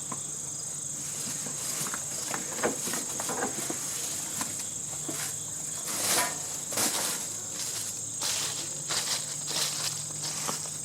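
Insects droning steadily at a high pitch, with a faint low hum underneath and scattered rustles and light knocks, the loudest about six seconds in.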